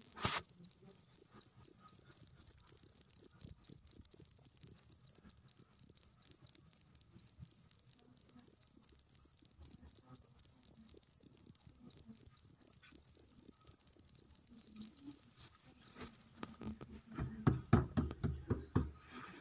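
Cricket chirping in a continuous, fast-pulsing high trill that stops suddenly about 17 seconds in, followed by a few faint knocks and rustles.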